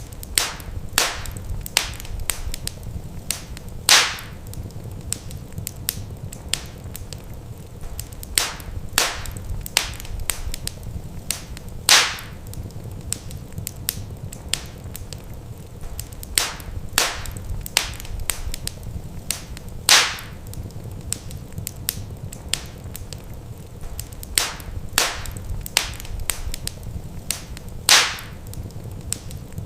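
Wood fire crackling: irregular sharp pops and snaps over a steady low rumble, with a louder pop about every eight seconds.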